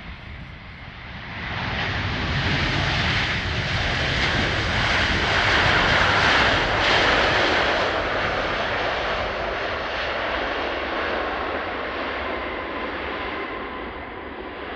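Large jet airliner passing close on landing approach: the engine noise swells about a second and a half in, peaks around the middle, then slowly fades, with a faint steady whine riding over the roar.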